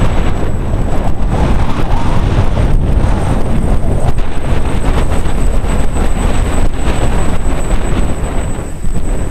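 Strong wind buffeting the microphone as a steady, heavy rumble, with an X250 quadcopter's electric motors running. A thin, steady high whine runs throughout.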